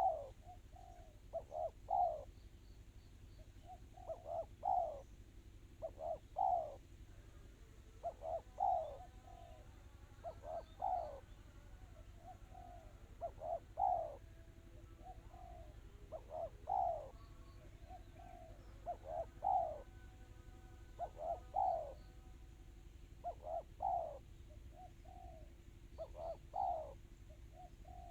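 Spotted dove (tekukur) cooing in the quick, closely spaced 'kristal' style. Its phrases repeat every two to three seconds, each a few short notes running into a louder final coo.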